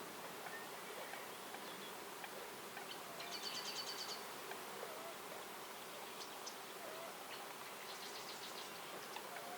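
Faint forest ambience: a low steady hum under quiet hiss, with a fast, high trill about three seconds in and a fainter one near the end, and scattered small chirps from birds.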